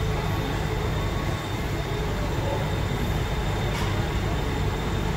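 Mumbai suburban local train running, a steady rumble of the moving coach heard from inside.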